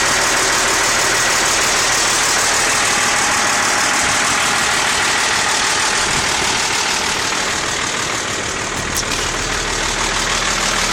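1997 Peterbilt truck's diesel engine idling steadily, heard close up at the engine.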